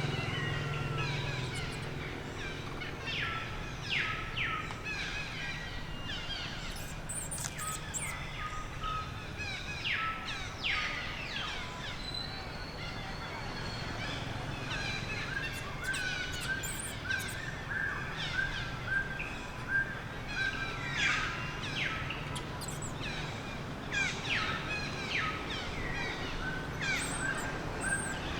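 Repeated high, chirping animal calls, many of them short quick downward sweeps, over steady outdoor background noise.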